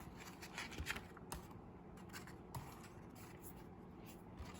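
Faint paper handling of a picture book between read-aloud passages: light rustles and a few soft clicks over a steady low hum.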